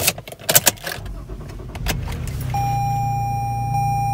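Clicks and rattles of keys and controls in a Toyota's cabin, then the car's engine starting about two seconds in and settling into a steady idle hum, with a steady high tone sounding alongside it.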